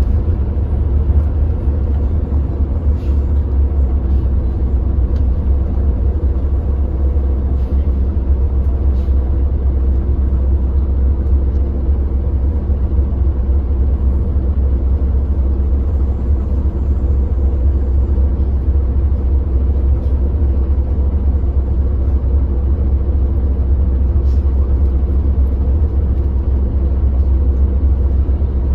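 Hyundai New Super Aero City city bus CNG engine running at a steady speed, a constant low rumble with an even engine tone that neither rises nor falls.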